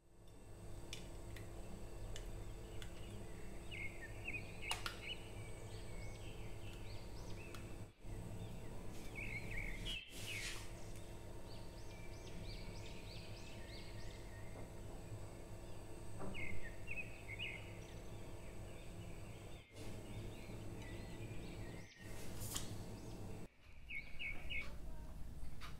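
Small birds chirping faintly in short, repeated bursts over a steady low hum.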